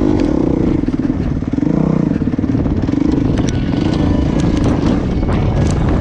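Suzuki RM-Z250 dirt bike's four-stroke single-cylinder engine running under throttle while riding, its pitch wavering, with scattered sharp clicks and clatter.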